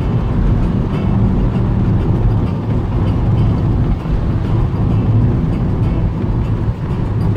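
Car driving at speed, its engine and tyres making a steady low road rumble heard from inside the cabin.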